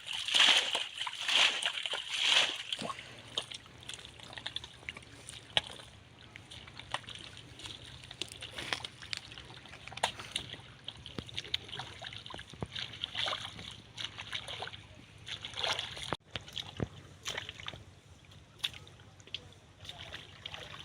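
Shallow, muddy river water sloshing and splashing in irregular bursts, loudest in the first few seconds, then smaller scattered splashes.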